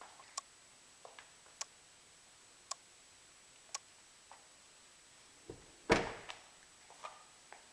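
Sharp ticks about once a second, then the door of a Toyota Tundra pickup shutting with one heavy thump and a short ring-out about six seconds in.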